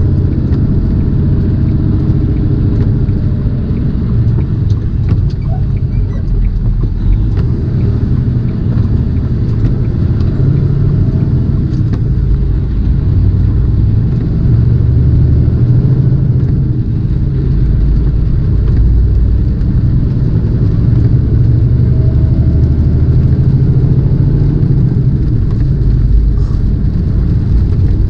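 Tractor-trailer's diesel engine and road noise heard from inside the cab while driving on the highway: a steady, loud low rumble.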